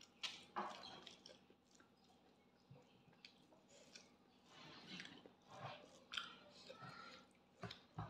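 Close-up mouth sounds of a person chewing a mouthful of rice and pork, scattered short wet smacks and clicks, with soft squishes of fingers mixing rice on a steel plate.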